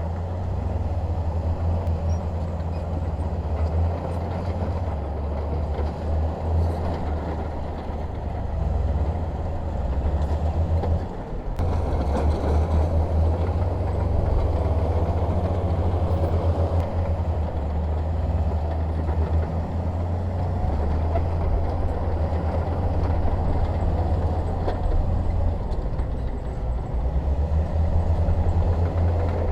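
Bulldozer's diesel engine running steadily under work, with a heavy low drone, dipping briefly about eleven seconds in.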